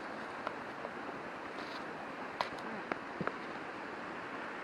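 Steady rushing of a river flowing close by, with a few light clicks, about four, over it.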